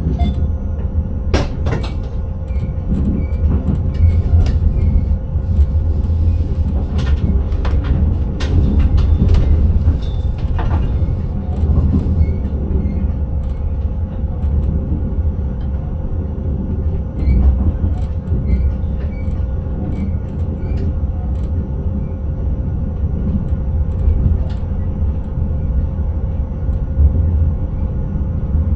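Intercity train heard from inside the driver's cab, running with a steady low rumble and a constant hum. Scattered sharp clicks and knocks come through in the first ten seconds or so.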